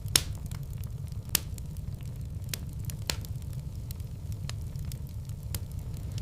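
Fire burning in a fireplace: a steady low rumble with scattered sharp crackles and pops, the loudest just after the start and another about a second and a half in.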